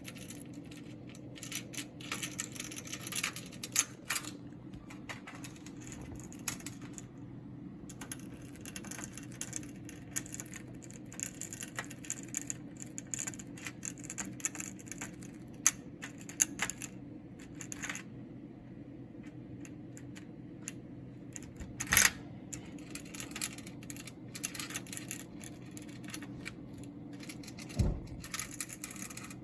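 Pet bird's quick clicks, taps and soft high chatter with light metallic jingling, over a steady low hum. A sharper click comes about two-thirds of the way through, and a dull thud near the end.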